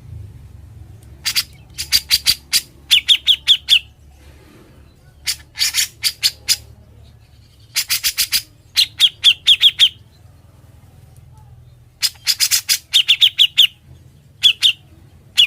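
Cucak jenggot, a bulbul, singing loudly in rapid chattering bursts. Each burst ends in a quick run of about five higher, clearer notes, and the phrases repeat with short pauses.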